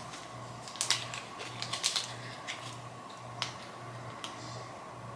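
Scattered light clicks and taps of small items being handled, strongest about a second and two seconds in, over a low pulsing hum.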